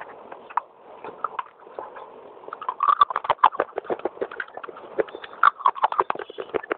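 Baked clay being bitten and chewed close to the microphone: crisp crunching and crackling. It is sparse for the first couple of seconds, then becomes a dense run of sharp, fast crunches.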